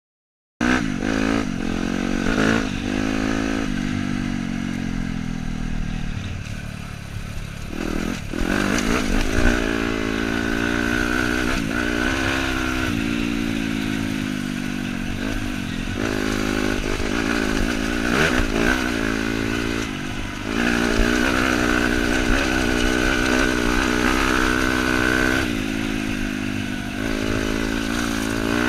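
Dirt bike engine running under a rider, its pitch rising and falling as the throttle is opened and closed. The engine note slows for several seconds, then picks up again, with clatter from the bike over rough ground. The sound starts suddenly about half a second in.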